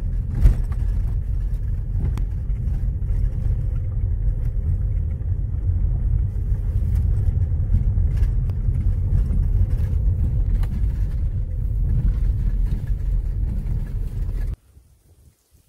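Car driving on a gravel road: a steady low rumble of engine and tyre noise with a few faint clicks. It cuts off suddenly near the end.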